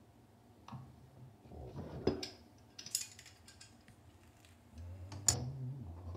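Scattered metal clinks and knocks of plumbing fittings and hand tools being handled, the loudest about two seconds in and again just after five seconds.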